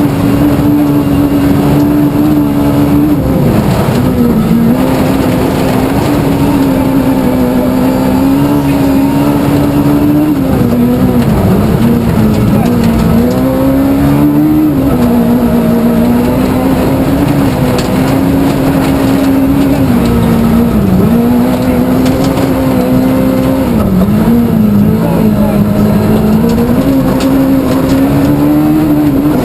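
Rally car's small-capacity engine (up to 1400 cc) held at high revs at full throttle, its pitch dipping and climbing back every few seconds with gear changes and lifts off the throttle.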